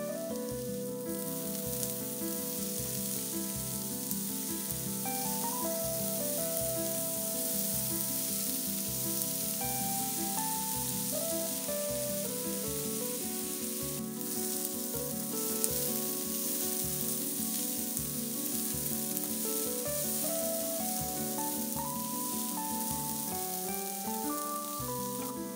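Diced potatoes, onion and red bell pepper sizzling as they fry in a stone-coated pan, with a steady hiss. Background music with slow, held notes plays throughout.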